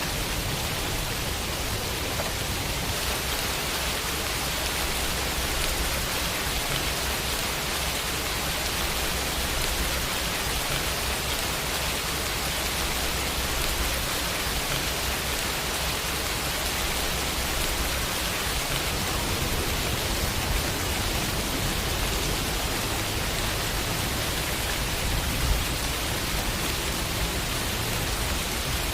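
Steady summer rain falling and pattering on a window pane, an even hiss without pauses.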